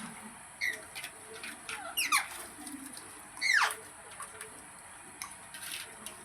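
Pet parrot calling: a few short chirps, then two sharp squawks about two and three and a half seconds in, each sweeping steeply down in pitch, the second one the loudest.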